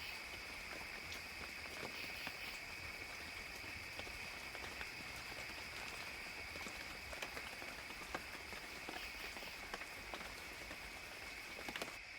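Gentle rain falling in a forest, a steady hiss with many scattered drops pattering and ticking. A steady high-pitched drone sits underneath.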